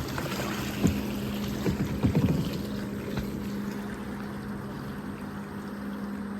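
Kayak on the water: a few knocks of the paddle against the hull in the first half, over water noise and a steady low hum.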